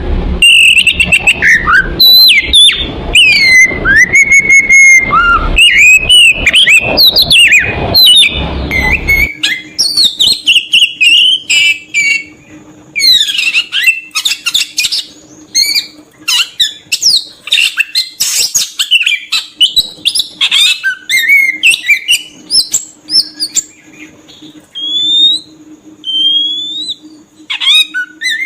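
Oriental magpie-robin singing a fast, varied run of whistles, slurred glides and chirps. About nine seconds in, the recording changes: a low background rumble cuts off, leaving the song over a faint steady hum.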